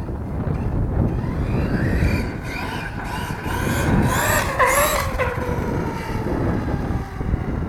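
Brushless electric motor of a 1/8-scale RC truck on a Castle Mamba X ESC, whining up in pitch as the truck speeds up. About two-thirds through it cuts back and the whine winds down. Wind rumbles on the microphone throughout.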